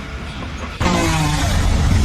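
A quieter stretch, then a steady low engine rumble cutting in abruptly a little under a second in, like a heavy vehicle running.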